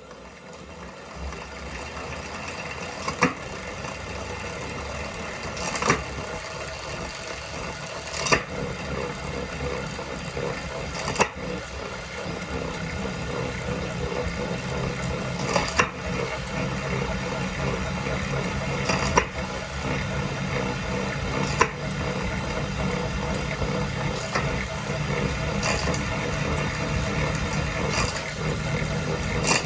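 A Wahoo Kickr Core direct-drive smart trainer driven through a SRAM AXS drivetrain, running with a steady low rumble that grows slightly louder. This is the unwanted rumbling noise being shown. A sharp click sounds every few seconds.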